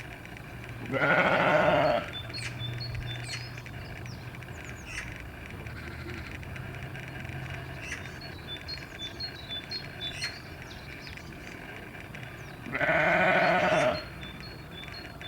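Livestock bleating: two long bleats of about a second each, one about a second in and one near the end, with faint high chirping in between.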